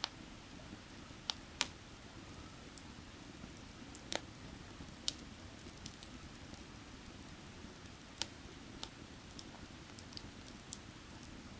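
Firewood burning with irregular sharp crackles and pops, the loudest about a second and a half in and again near four seconds, over the steady low rush of a creek.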